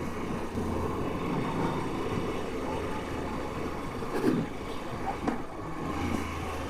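Moto Guzzi V85's transverse V-twin engine running at a steady speed under way, with wind rushing over the microphone.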